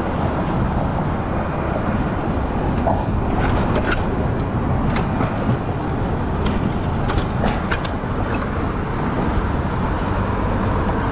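Steady low rumble of road traffic, with a few short clicks or knocks in the middle.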